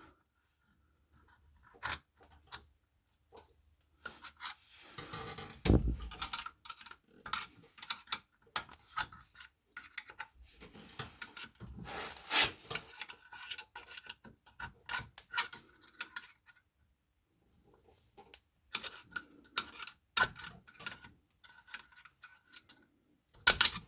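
Scattered small metallic clicks, scrapes and rubbing as a new clutch release thrust bearing and its retaining spring clips are worked into place on an air-cooled VW engine, with short pauses between and a single low knock about six seconds in.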